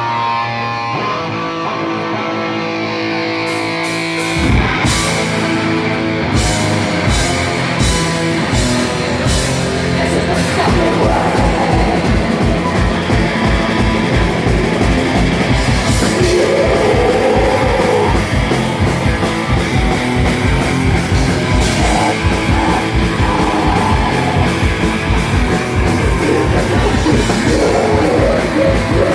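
Live rock band playing loudly: electric guitar alone for the first four seconds or so, then the drums and full band come in and drive on with a fast, steady beat.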